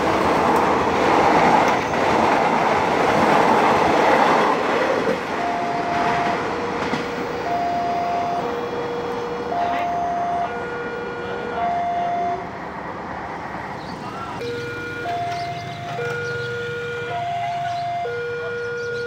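Prameks train passing close by at speed, a loud rush of wheel and body noise for the first five seconds. Then the level crossing's electronic warning alarm sounds, two tones alternating high and low, about one a second, while the barrier stays down.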